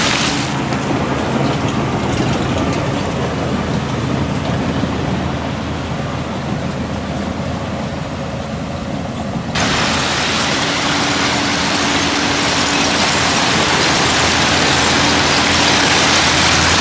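Diesel engine of heavy earthmoving machinery running steadily, with a low, even engine note. About ten seconds in the sound changes abruptly to a brighter, noisier mix of engine and track or dirt noise.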